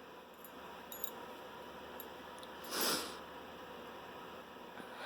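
A single short sniff, a quick breath drawn through the nose, just under three seconds in, over quiet room tone with a few faint clicks.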